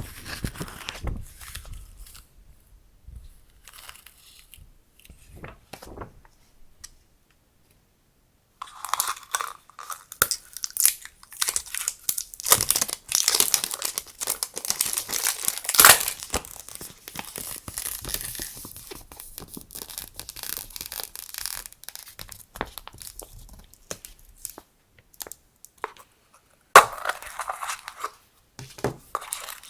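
Packaging crinkling and tearing as it is handled and opened by hand. It comes in irregular spells, busiest in the middle with a couple of sharp louder rips, after a short quiet pause early on.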